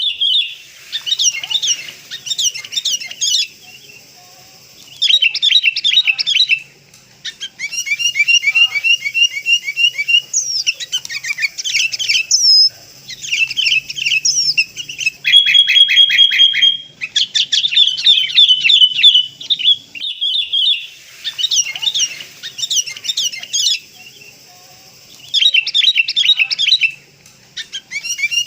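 Sooty-headed bulbuls calling in busy bursts of quick repeated chirps and short whistled notes, each burst lasting a few seconds, separated by brief pauses. These are lure calls (suara pikat) used to draw kutilang in.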